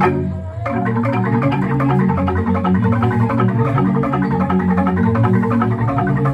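Jegog bamboo gamelan ensemble playing: rapid, dense struck notes on bamboo-tube xylophones over deep, ringing bass tones. It opens with a loud hit, and the fast playing picks up about a second in.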